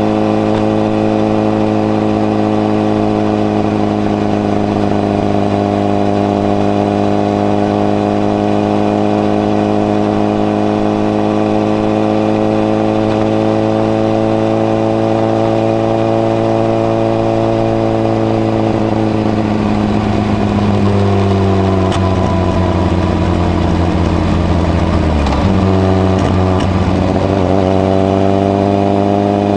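Honda CBR1000RR (SC57) inline-four running through a modified Moriwaki muffler with the baffle fitted, heard while riding. The steady note eases slowly down in pitch, wavers and drops about twenty seconds in, then climbs again near the end.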